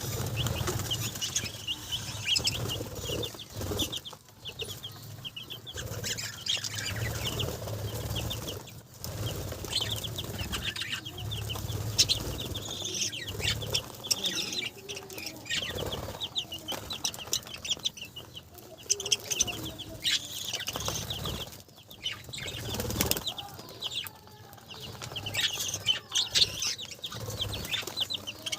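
A group of budgerigars chattering in dense, rapid chirps, with frequent wing flapping and rustling among them.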